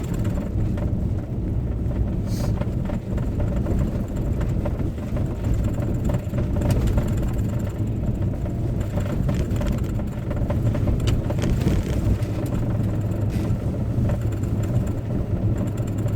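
Steady low drone of a car's engine and tyres on a snowy road, heard from inside the cabin while driving.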